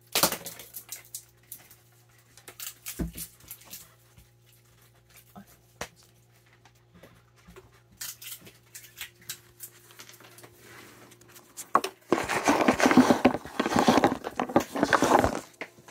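Raccoon eating treats at close range: scattered small clicks and crunches, then, about twelve seconds in, a loud few-second stretch of dense rustling and crunching.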